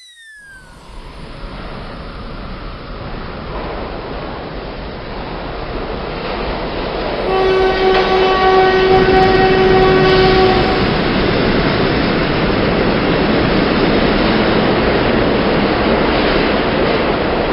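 Train running noise that grows steadily louder as it approaches, with one long steady horn blast about seven seconds in that lasts around three and a half seconds.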